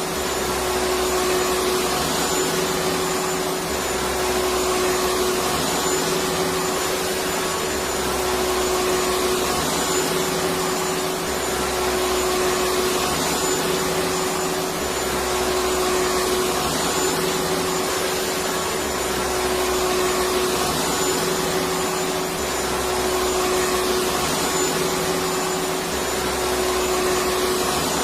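Electric vacuum cleaner running continuously: a steady whooshing motor whir with one constant hum tone.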